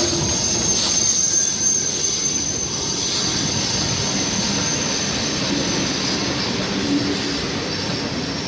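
A steam-hauled train of maroon British Railways Mark 1 coaches rolling past close by behind BR Standard Class 4MT No 75078: a steady rumble of wheels on rails with a thin high-pitched whine throughout, a little heavier in the first second as the locomotive goes by.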